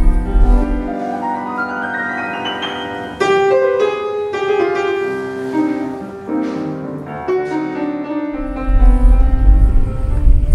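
Piano music with runs of notes climbing in pitch. A low rumble sits under it during the first second and again over the last couple of seconds.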